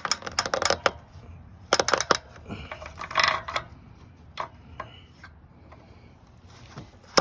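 Boat-trailer hand winch being cranked, its ratchet pawl clicking in quick runs as the tow strap draws tight: two runs of rapid clicks in the first two seconds, then a few single clicks.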